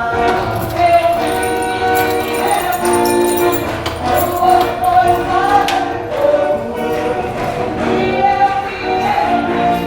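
Church congregation singing hymns with instrumental accompaniment and a jingling tambourine, heard from outside the church building.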